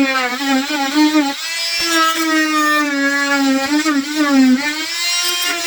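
Dremel rotary tool cutting a car bumper. Its high whine keeps dipping in pitch as the cutter bites into the material and then picks back up.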